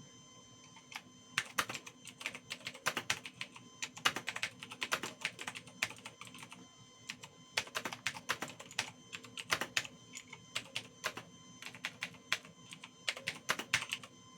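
Typing on a computer keyboard: irregular key clicks in quick runs with short pauses, starting about a second in.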